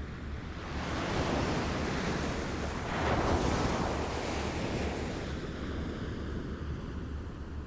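Small waves lapping on a shore: the wash of water swells about a second in and again around three seconds, then eases off.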